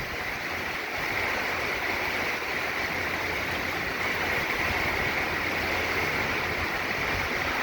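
Steady rush of heavy hurricane rain driven by strong wind, with a low rumble underneath.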